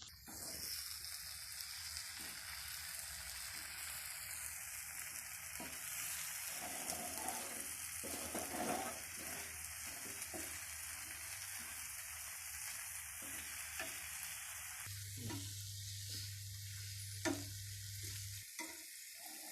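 Fried boneless chicken pieces sizzling in a pan of sauce as they are stirred, with a steady hiss and irregular scrapes and knocks of the spoon against the pan. A low hum joins for a few seconds near the end.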